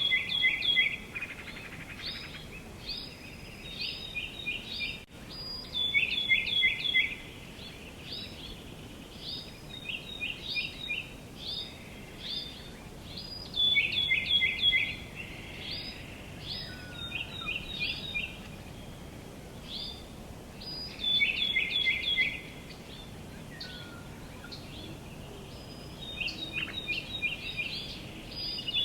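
Songbirds chirping in quick runs of short, high notes, a burst every few seconds, over a faint steady outdoor background hiss.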